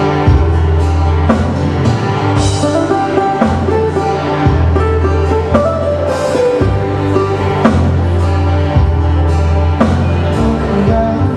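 Live Hawaiian music: a band plays an instrumental passage on guitar, with deep bass notes changing every second or so and a steady beat.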